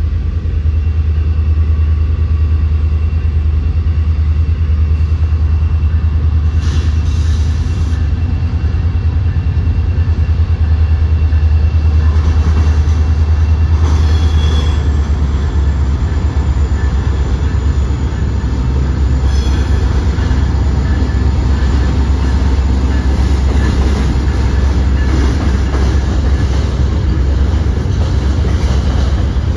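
CSX freight train rolling across a steel truss swing bridge: a steady, heavy low rumble from the diesel locomotive and the covered hopper cars passing over the span.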